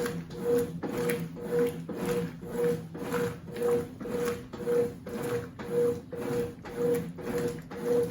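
Consul 8 kg top-loading washing machine (CWC08) agitating a load, a single-bed bedspread: the motor hums and the water churns in an even rhythm of about two strokes a second.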